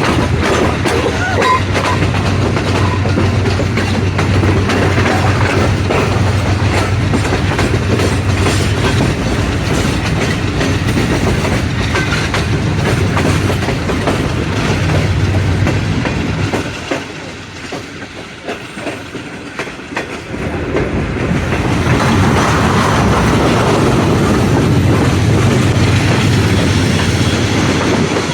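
Passenger train running on the rails, its wheels clattering over the rail joints under a steady low drone. The sound drops away for a few seconds a little past halfway, then comes back up.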